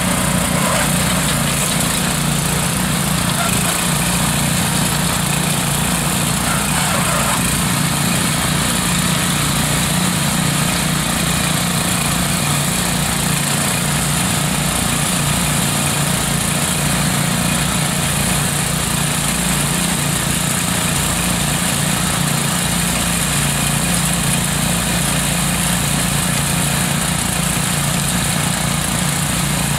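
Lawn tractor engine running steadily while it tows a pair of tillers through the soil.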